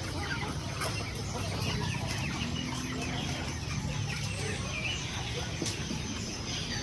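Many caged birds chirping and calling at once, with a chicken clucking among them, over a steady low hum.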